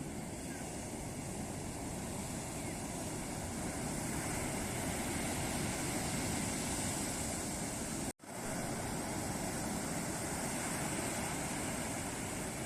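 Ocean surf washing onto a beach as a steady rushing noise. The sound cuts out for a split second about eight seconds in.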